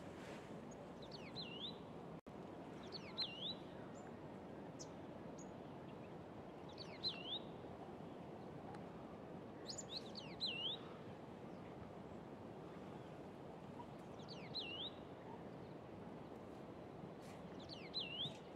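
A songbird repeating the same short call about six times, a few seconds apart: a quick high note sweeping down into a hooked, rising note. A steady low background noise runs underneath.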